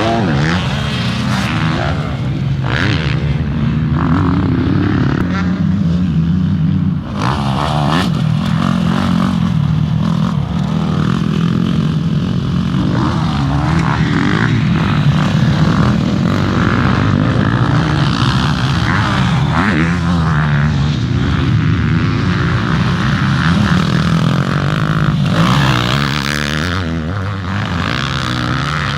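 Motocross dirt bike engines running and revving, their pitch rising and falling continuously as the bikes ride the track.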